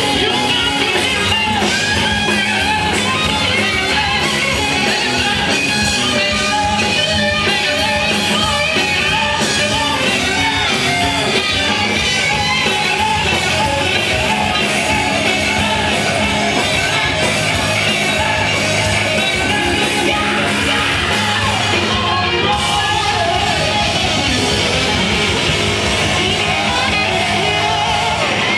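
Live rock band playing loudly, with electric guitar to the fore over bass and drums, in a stretch without clear sung words.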